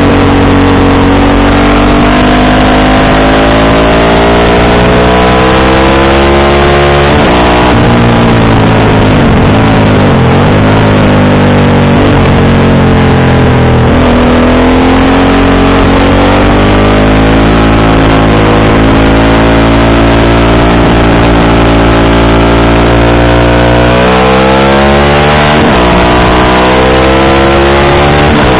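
Motorcycle engine and exhaust under way, its pitch climbing slowly through the gears, dropping sharply a few times, then rising again near the end.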